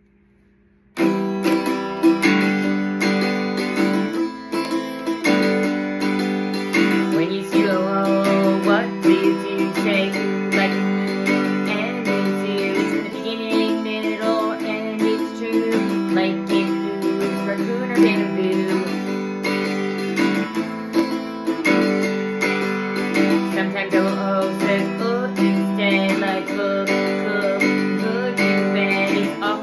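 Acoustic guitar strummed in simple open chords, starting about a second in.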